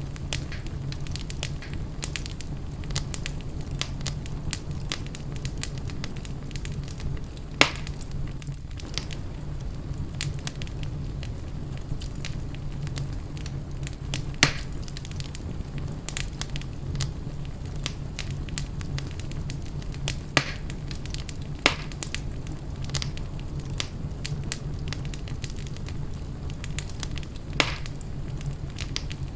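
Wood fire burning in a fireplace: steady crackling over a low rumble, with a handful of louder sharp pops from the burning logs.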